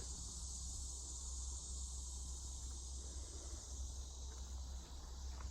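Insects trilling in a steady high-pitched chorus over a low rumble.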